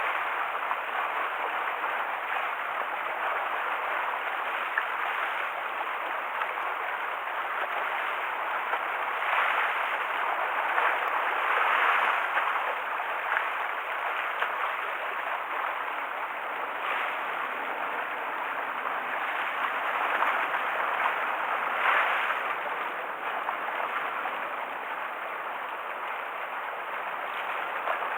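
Choppy sea stirred up by a typhoon, waves washing and splashing against the harbour shore in a steady rush that swells louder now and then.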